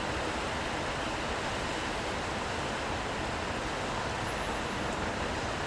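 Steady wash of rain and passing traffic on wet city streets, an even hiss with no distinct events.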